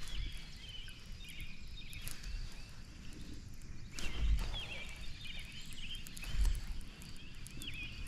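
Songbirds chirping over a light outdoor hiss, with a few low thumps, the strongest about four and six and a half seconds in.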